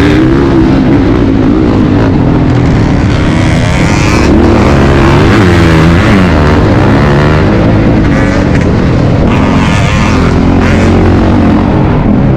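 Motocross dirt bike engine being ridden hard, loud throughout, its pitch rising and falling again and again as the throttle is opened and shut through the track's sections.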